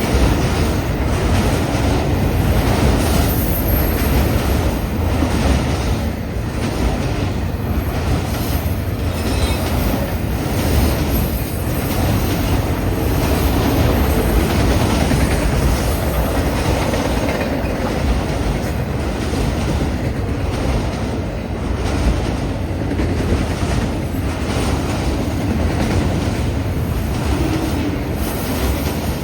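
Long freight train's cars rolling past at speed: a steady rumble of steel wheels on rail, with repeated clacking as the wheels cross the rail joints.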